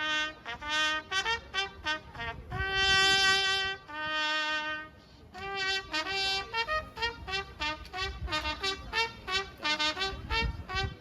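A brass instrument, trumpet-like, playing a melody one note at a time: a few long held notes and then quicker runs, with a short break about five seconds in. A low rumble of wind on the microphone comes in near the end.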